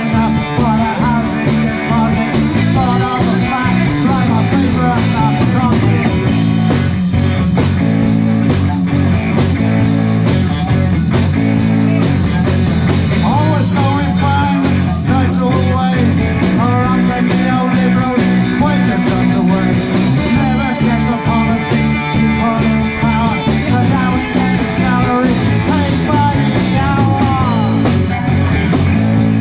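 Live rock band playing loud and steadily, with lead guitar over bass and drums and no sung words.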